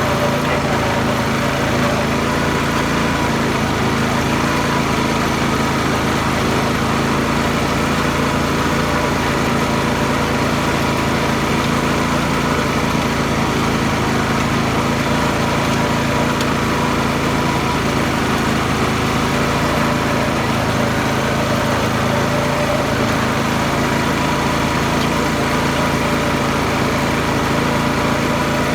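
Garden tractor engine running at a steady speed.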